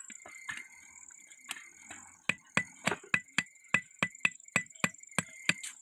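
A blacksmith's hammer striking metal, forging an iron rod: a few light taps, then from about two seconds in a steady run of about a dozen sharp blows, about three a second.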